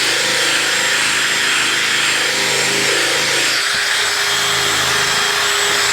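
Electric drill spinning a polishing pad against a plastic motorcycle windshield: a steady motor whine with the rub of the pad, buffing plastic polish into the faded, cloudy plastic. The motor's pitch shifts a little over halfway through.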